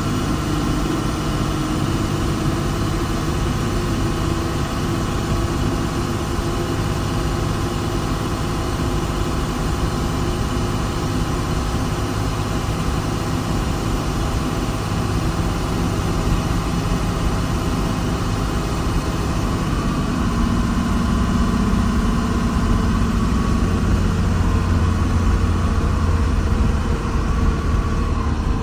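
Diesel engine of heavy earthmoving machinery running steadily, growing a little louder about twenty seconds in.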